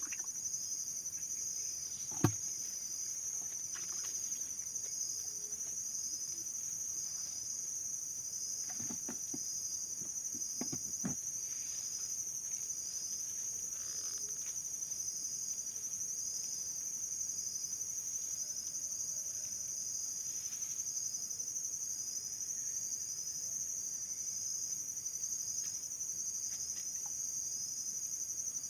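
Insects trilling steadily in a continuous high pitch, with a softer chirp pulsing about once a second. A single sharp knock comes about two seconds in.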